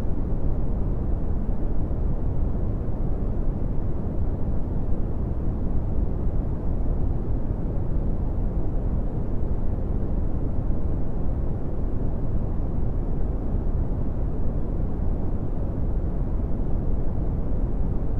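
Brown noise: a steady, deep rushing hiss, strongest in the bass and fading away toward the treble, with no tones or changes.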